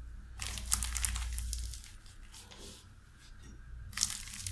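Rustling and crinkling in two spells, one about half a second in lasting over a second and a shorter one near the end, over a low steady hum.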